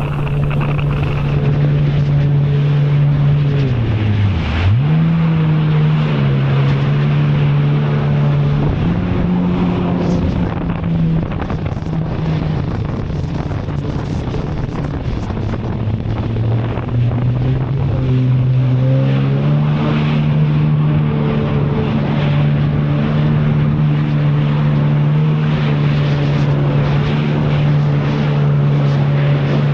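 Jet ski engine running at speed under the riders, its pitch dropping sharply and picking straight back up about four seconds in, then sagging lower and rising again past the middle, with wind noise on the microphone throughout.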